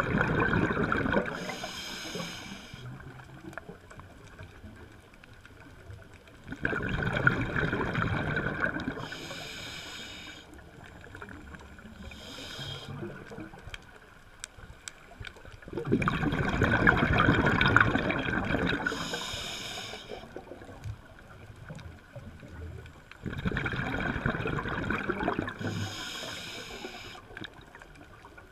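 Scuba diver breathing through a regulator underwater. Bubbling exhalations of two to four seconds come about every seven to eight seconds, each followed by a short hissing inhalation.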